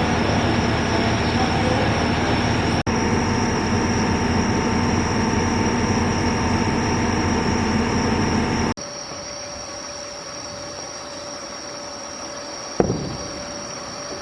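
Train running, heard on board: a loud, steady rumble with a steady hum. It cuts off abruptly about nine seconds in, after a brief dropout near three seconds. After the cut the running noise is much quieter, with a single sharp knock near the end.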